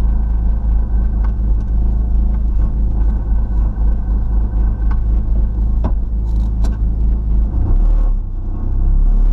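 Rally car's engine idling with a loud, steady low rumble, heard from inside the stripped cabin, with a few sharp clicks. About eight seconds in the engine note shifts and briefly dips, then settles into a steadier, louder hum.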